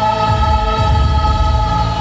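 Women's choir holding a long sustained note over instrumental accompaniment; the held note fades out at the very end.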